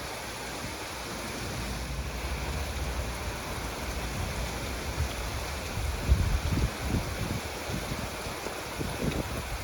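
Heavy rain falling in a steady hiss during a severe thunderstorm, with low gusts of wind buffeting the microphone from about six seconds in and again near the end.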